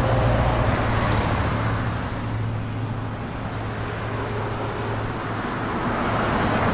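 Four-wheel-drive vehicle on the move: its engine runs at a steady drone under continuous tyre and road noise.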